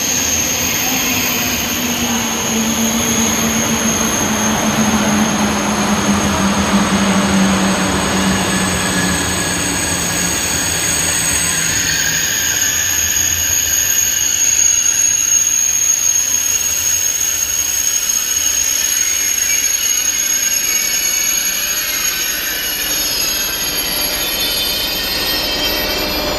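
A train running by on the track, loud and steady, with a steady high-pitched whine over the rumble of the train.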